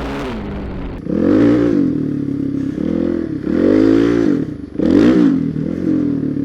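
Suzuki DRZ400SM's single-cylinder four-stroke engine revving up and falling back repeatedly, about five rises in pitch in a few seconds, as the throttle is worked on and off.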